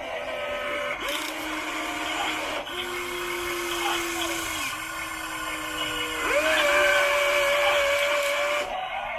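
Electric-driven hydraulic pump of an RC excavator model whining steadily. Its pitch sags and drops midway as the load changes, then jumps up and runs louder for a couple of seconds near the end.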